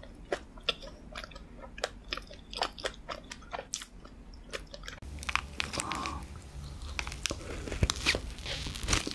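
Close-miked chewing of a soft jam-filled donut: wet, clicking mouth sounds. About five seconds in the sound changes to louder, denser chewing and biting into a sugar-dusted cream-filled donut.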